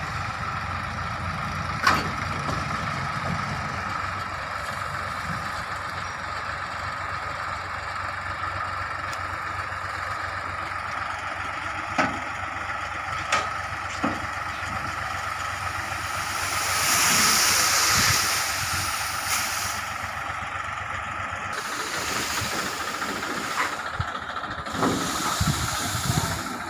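Tractor engine running steadily, with a few sharp knocks during the trolley loading and a hissing rush lasting about three seconds, beginning about 16 seconds in.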